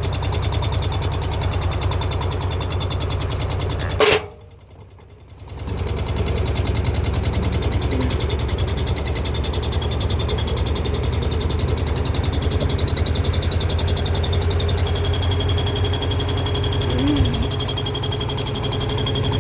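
Washing machine running with a steady low mechanical hum. About four seconds in there is a sharp click, the sound drops away for a second or so, and then the hum comes back.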